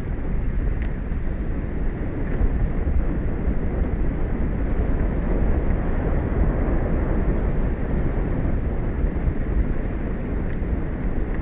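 Steady wind buffeting an outdoor microphone, a dense low rumble that holds level throughout, with a few faint short high chirps.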